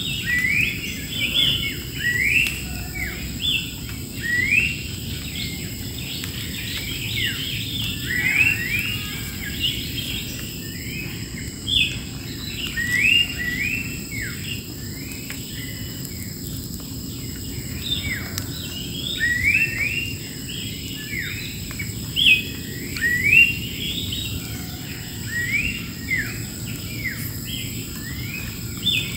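Wild birds singing: many short, quick whistled notes that sweep in pitch, overlapping in busy runs, over a steady high-pitched hum.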